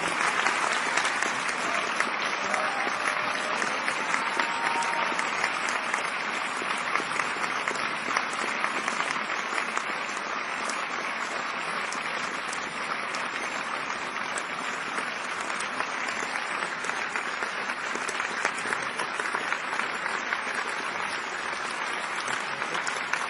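A large audience applauding and cheering, with dense clapping that keeps up at an even level throughout.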